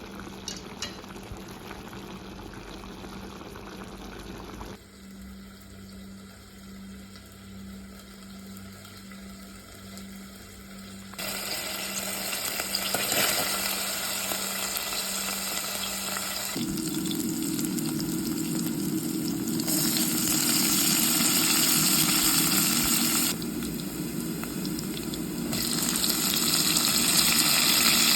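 Kitchen cooking sounds in a run of short edited clips: food sizzling and liquid bubbling in a pan, much louder in the later clips, over a steady low hum.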